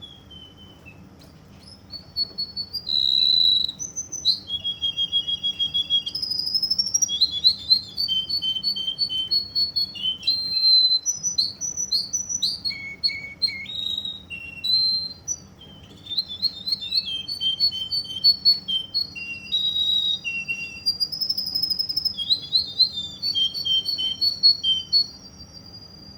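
Russian song canary singing a long, continuous song of rapid repeated trills and whistled notes. It begins about two seconds in and stops shortly before the end.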